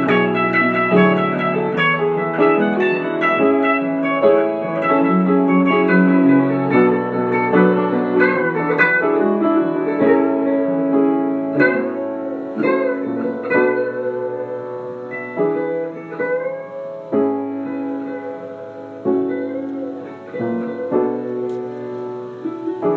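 Instrumental music: plucked guitar notes and chords, with no singing, thinning out over the second half.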